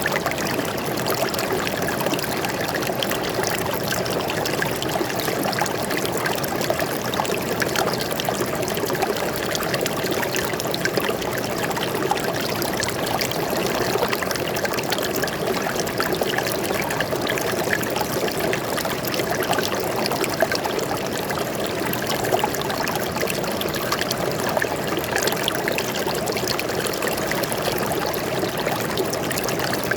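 Forest stream flowing steadily, water trickling and splashing without a break.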